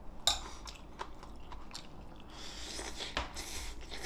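Close mouth sounds of a person chewing a mouthful of beef bulgogi with glass noodles, with small scattered clicks and one sharp click about a third of a second in.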